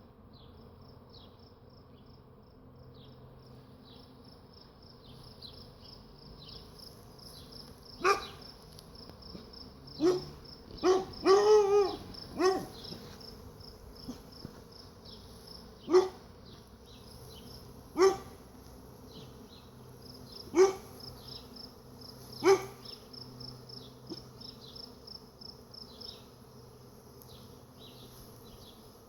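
A dog barking on and off, about eight barks, with a quick run of them about ten to twelve seconds in, over the faint steady buzz of a bee swarm with a fine high insect chirring.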